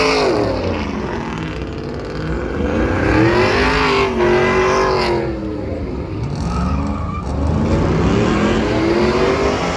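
Vehicle engine revving, its pitch falling and rising in slow swells several times: down just after the start, up around three seconds in, down again near five seconds, up again around seven to eight seconds and falling near the end.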